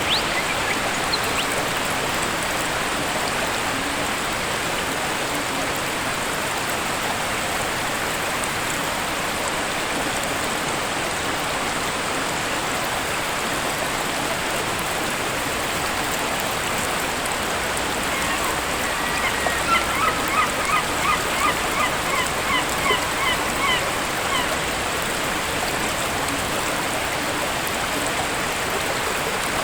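Steady rush of falling water from a waterfall. About two-thirds of the way in, a bird gives a run of short, quickly repeated calls for several seconds.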